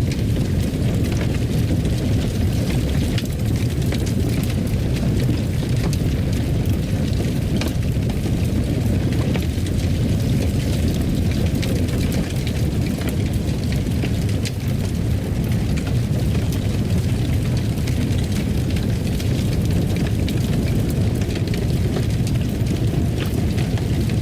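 Wood fire burning in a fireplace: a steady low rumble with many small crackles and pops scattered through it.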